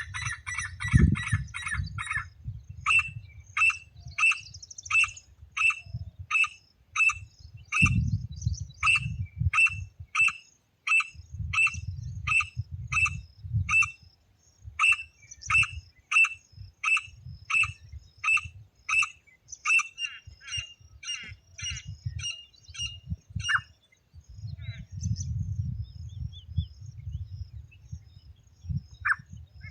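Teetar (francolin) calling: a harsh run of notes at the start, then a long series of sharp, evenly repeated notes about two a second that turn weaker and quicker and thin out near the end. A low rumble runs underneath in stretches.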